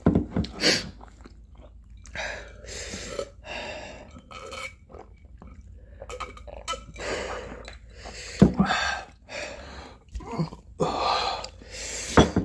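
Close-miked mouth sounds of eating very spicy instant noodles: chewing, hissing breaths and drinking, with a few sharp low thumps, the loudest about eight seconds in and another near the end.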